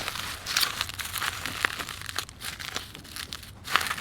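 Plastic wrapping crinkling and rustling in irregular bursts with small clicks as it is handled and wrapped around a part.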